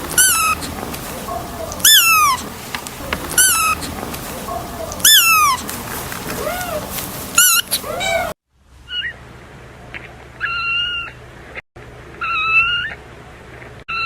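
Kitten meowing repeatedly: short, high-pitched meows that fall in pitch, about one every second or two. After a brief break about eight seconds in, longer meows held at a level pitch.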